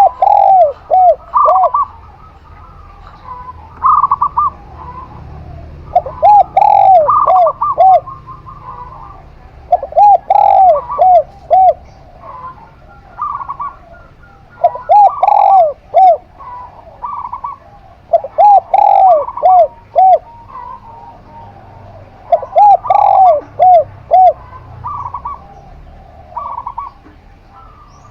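Zebra dove and spotted dove cooing. Phrases of four or five quick, arched notes repeat roughly every four seconds, overlapping with a second set of higher coos.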